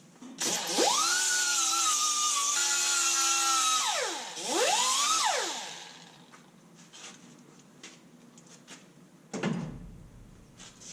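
Power drill spinning up to a steady high whine for about three and a half seconds, winding down, then revving briefly once more. A single knock follows near the end.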